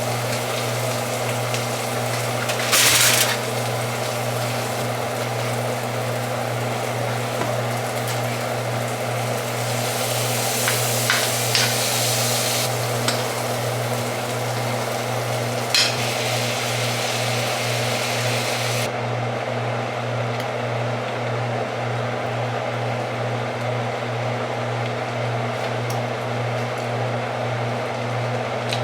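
Food sizzling in a hot pan over a steady low hum, with a few clicks of utensils; the high hiss of the sizzle drops away about two-thirds of the way through.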